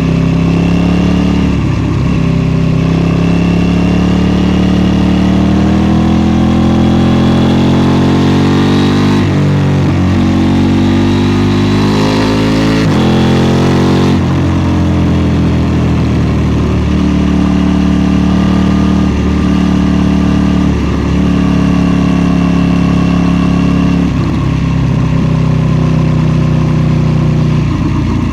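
KTM 790 Duke's parallel-twin engine accelerating hard through the gears under load. Its pitch climbs and drops sharply at upshifts about nine and thirteen seconds in. It then eases off and runs at a steadier pitch, with brief dips as the throttle is rolled off.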